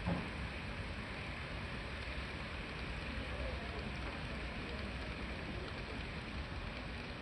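N gauge model trains running on a layout, a steady rolling hiss of small wheels and motors on the track, with a brief knock about a second in.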